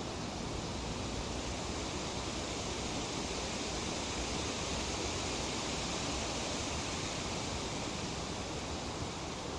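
Breeze rustling through tree leaves: a steady, even hiss that swells a little in the middle and eases again.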